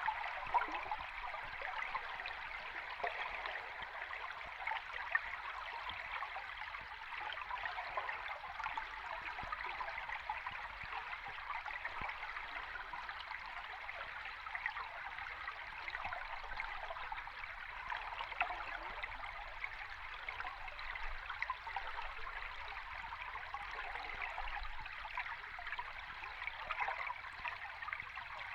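A stream of flowing water recorded underwater: a steady rushing with fine bubbling and gurgling crackles, unchanging throughout.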